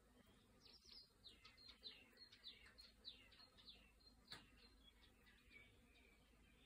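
Faint birdsong: a quick run of short, high, falling chirps, about three a second, lasting several seconds, with a single sharp click about four seconds in.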